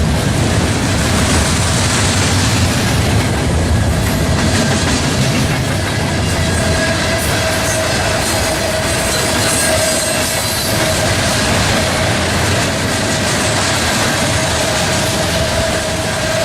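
Norfolk Southern train rolling past close by: steady, loud rumble and clatter of railcar wheels on the rails, with a steady whine from the wheels setting in about six seconds in.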